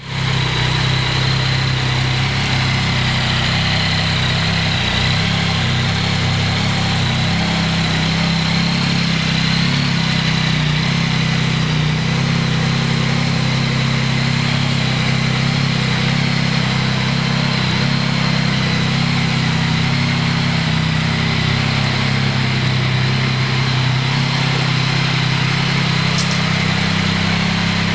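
Yamaha Tracer 9 GT's 890 cc inline three-cylinder engine idling steadily, with no revving.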